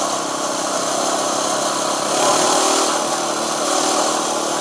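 Coleman minibike's small single-cylinder four-stroke engine running steadily under way, heard through a microphone inside the rider's helmet.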